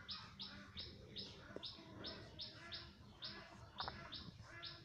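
Faint bird chirping, short falling chirps repeated evenly about two and a half times a second.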